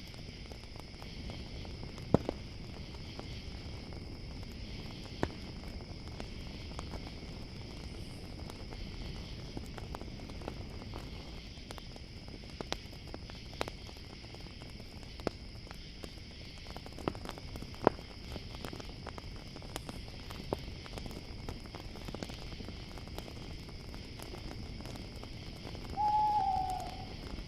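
Campfire crackling, with sharp pops every few seconds, over a steady chorus of crickets; an owl hoots near the end.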